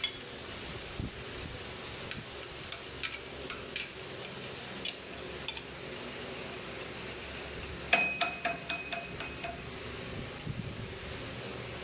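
Scattered light metallic clinks of tools and parts being handled, with a louder metal clank about eight seconds in that rings briefly, over a steady background hum.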